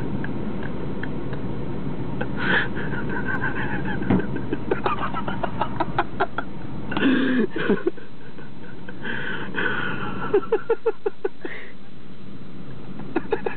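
An ostrich pecking its beak at the car window: runs of sharp taps, one quick burst of several taps a second near the end, over the steady hum of the car's idling engine.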